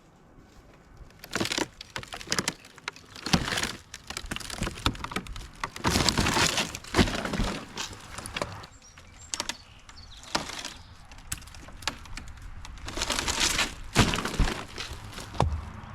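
Wood cracking and splintering in irregular crashing bursts, two of them longer, the sound of a large storm-felled tree's limbs breaking as it is brought down off a house roof.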